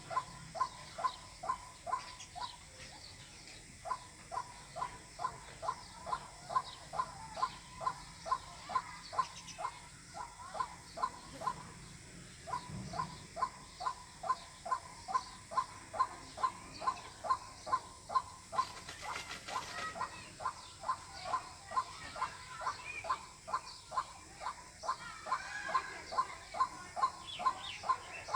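White-breasted waterhen calling, a short note near 1 kHz repeated monotonously about two to three times a second, with a couple of brief pauses.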